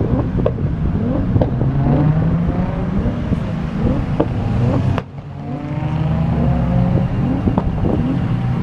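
Car engines accelerating hard, their exhaust notes climbing in pitch. The sound breaks off suddenly about halfway, then another rising engine note follows.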